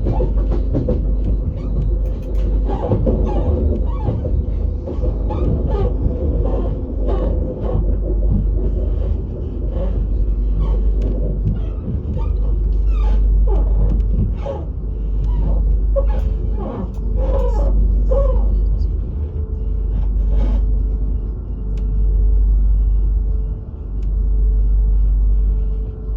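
Deep rumble inside a Lastochka electric train's carriage, swelling and fading every few seconds, with scattered knocks and muffled background sounds; a steady hum comes in about twenty seconds in.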